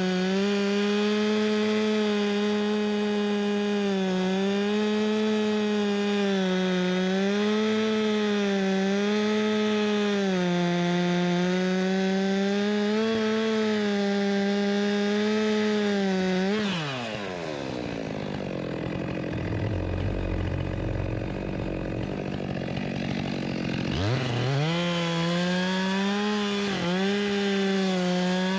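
Stihl MS 462 two-stroke chainsaw with a 25-inch bar running at high revs, cutting through a thick branch fork, the note wavering slightly as it bites. About two-thirds of the way through the throttle is let off and the saw drops to idle for several seconds, then revs back up and carries on cutting.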